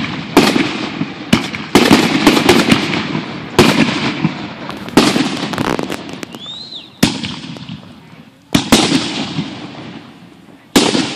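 Aerial fireworks going off: sharp shell bursts every second or two, about eight in all, each trailing off in a long fading rumble and crackle. A brief whistle rises and falls about two-thirds of the way through.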